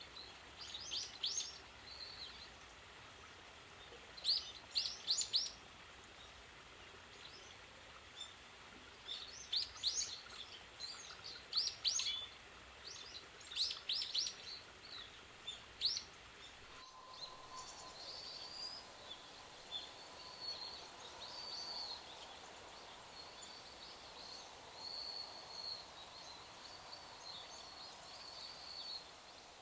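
Flock of bramblings calling: clusters of short, sharp chirps in bursts through the first half, then, after an abrupt change, softer wavering calls with a faint steady tone underneath for a few seconds.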